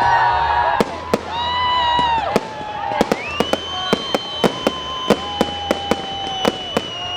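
Fireworks going off: shrill whistles that glide and then hold, with a few sharp bangs early on, then a quick run of bangs about three a second from around three seconds in.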